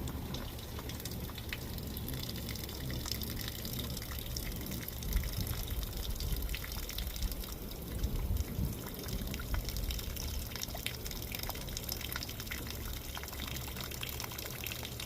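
Water running and splashing from plant watering, a steady trickle with scattered drips and small splashes.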